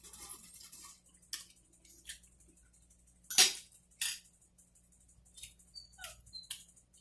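A dog gives two short, sharp barks about halfway through, among a few fainter clicks.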